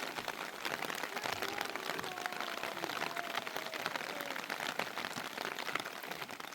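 Steady rain falling, a dense patter of countless drops hitting a surface.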